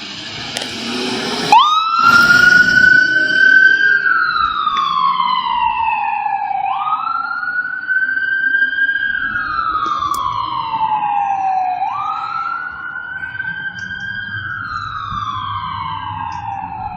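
Fire engine siren on a 2017 Ford F550 mini pumper switching on about a second and a half in, after a rushing noise, then wailing: each cycle climbs quickly and falls slowly over about five seconds, three times over.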